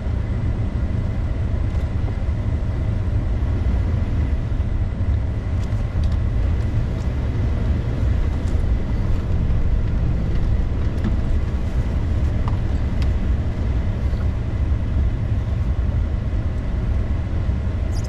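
Steady low rumble of a car being driven, engine and road noise together.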